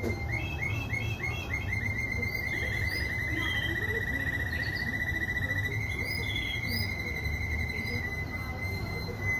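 Domestic canary singing: a run of quick rising chirps about four a second, then a fast trill on one pitch for about three seconds, going over into a long, steady whistled note.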